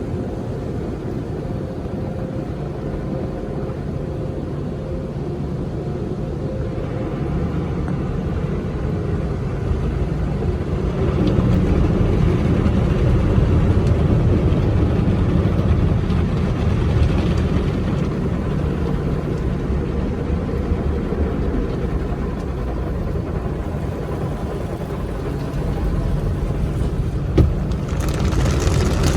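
Automatic car wash heard from inside the car: a steady low rumble of the wash machinery with a hiss of spray, louder about eleven seconds in. A single sharp click sounds near the end, and a brighter spray hiss starts just after it.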